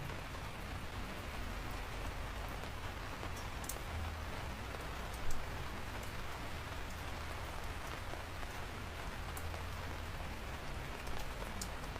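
Steady rain falling, a dense patter with scattered individual drops ticking sharply, and one brief louder knock a little past five seconds in.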